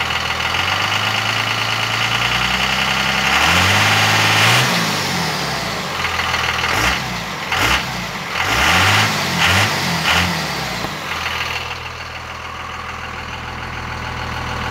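24-valve Cummins inline-six diesel idling, then revved up once and let fall, followed by several quick throttle blips before settling back to a steady idle.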